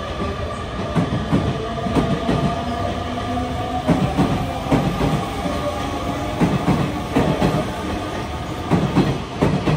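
Hanshin Railway electric train running, a steady motor whine under repeated clacks of the wheels over rail joints.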